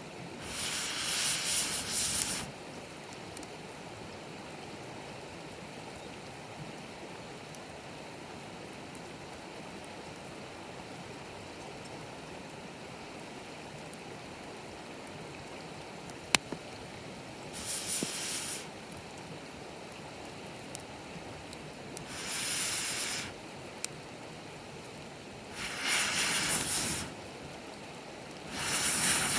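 Wood bonfire burning with a steady low hiss and one sharp crackle, broken by five bursts of rushing air, each a second or two long, blown onto the fire to keep the big log burning.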